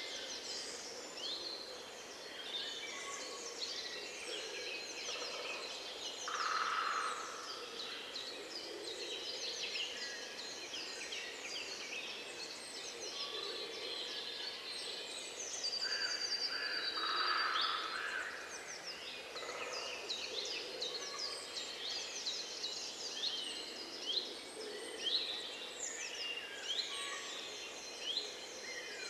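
A dense chorus of small birds chirping and singing: many quick falling notes overlap without pause. A louder, lower call stands out twice, about 7 seconds in and again around 17 seconds.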